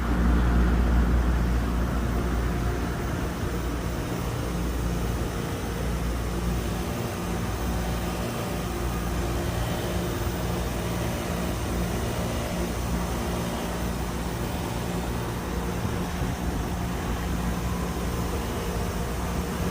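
Hitachi air conditioner running: a steady mechanical hum with low droning tones over a rushing noise, a little louder for about the first second and then even.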